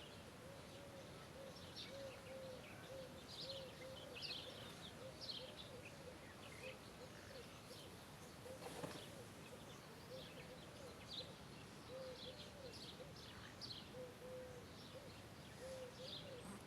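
Faint birds chirping, with scattered high chirps over a short low note repeated about twice a second. There is a single click about nine seconds in.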